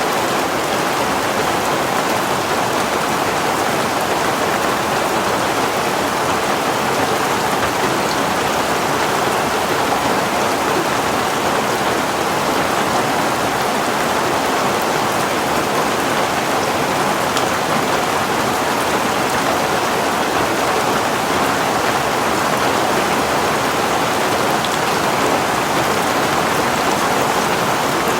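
Heavy rain falling steadily, a dense even hiss of rain on surfaces with no letup.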